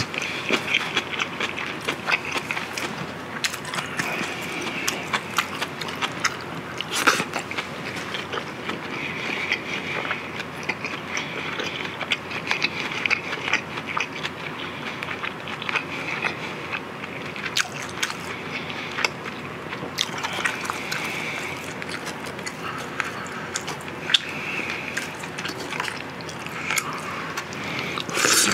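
A person chewing mouthfuls of grilled marinated pork ribs and rice close to the microphone, with many small wet mouth clicks throughout and a few sharper ones.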